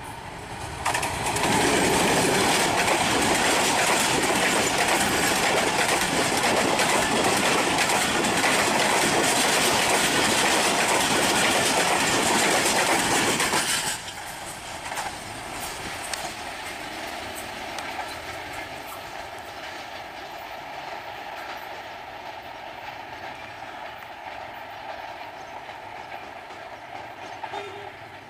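Green Line Express passenger train, hauled by a GE U20C diesel-electric locomotive, passing close by at speed: the engine and the coaches' wheels clickety-clack on the rail joints, loud for about twelve seconds. It then drops abruptly to a quieter, steady rumble as the train runs away down the line.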